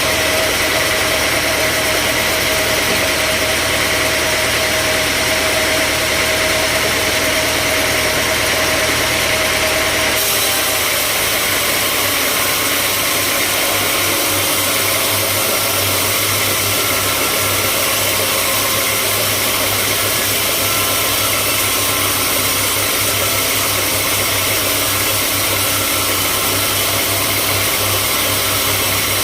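Sawmill machinery running with a steady, loud engine-like drone. The sound changes abruptly about ten seconds in, then runs on steadily.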